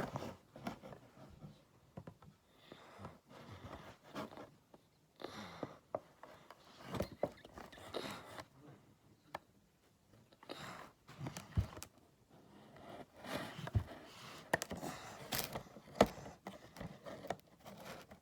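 Toy packaging being worked open by hand: irregular scraping and rustling broken by sharp clicks and knocks.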